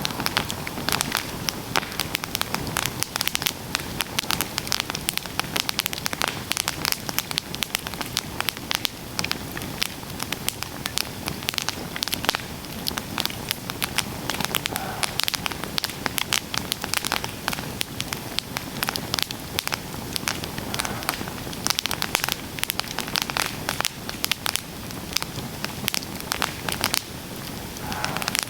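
Campfire burning with a dense, irregular crackle over a steady hiss.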